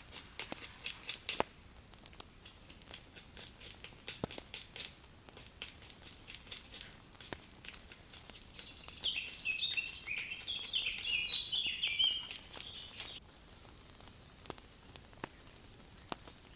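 A songbird sings a quick jumble of high chirping notes for about four seconds in the middle, the loudest sound here. Around it, scattered small clicks and crackles, like twigs and dry leaves being handled.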